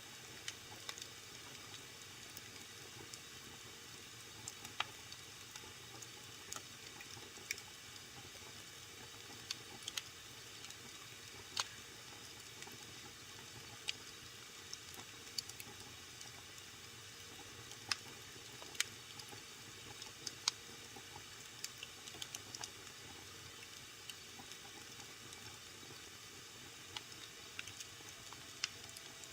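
Wood fire burning in a fireplace: a steady soft hiss with irregular sharp crackles and pops, a few every second.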